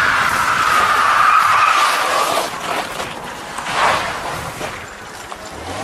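Car tyres squealing as a car skids: a long squeal that slowly falls in pitch for about two and a half seconds, followed by a shorter burst of tyre noise around the middle.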